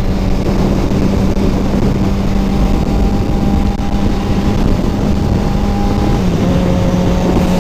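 Motorcycle engine running steadily under way, with wind rush over the microphone; the engine note steps slightly lower about six seconds in.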